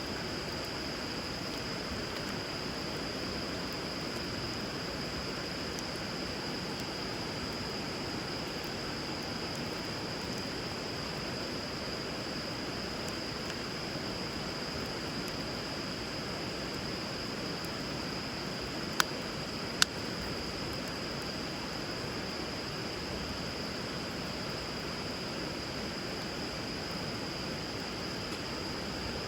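River water flowing steadily, with a continuous high-pitched tone running over it. About two-thirds through, the burning wood of the campfire gives two sharp pops less than a second apart.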